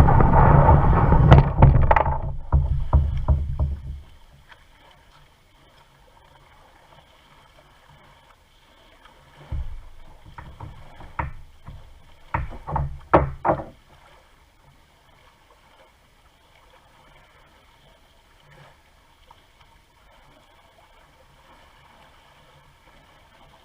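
Kayak paddling: a loud rush of wind and water over the first four seconds with sharp knocks, then a cluster of paddle splashes and knocks from about ten to fourteen seconds in, otherwise quiet lapping.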